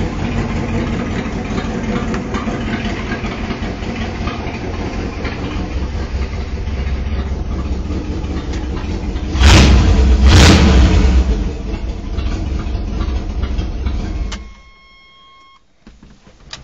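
Small-block V8 swapped into a 1988 Chevrolet S-10, idling, revved sharply twice about nine and ten seconds in, then shut off about fourteen seconds in. Just after the engine stops, a brief steady electronic tone sounds. Heard from inside the cab.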